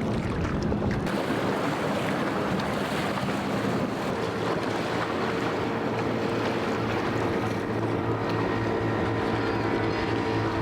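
Motorboat engines running amid waves, with wind noise on the microphone. About four seconds in, a steady engine hum comes up and stays.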